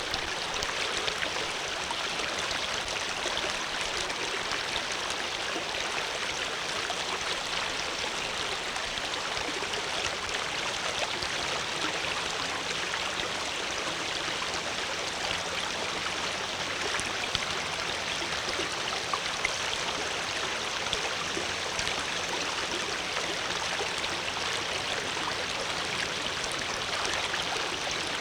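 Flowing water running steadily, a constant splashing rush like a stream over rocks.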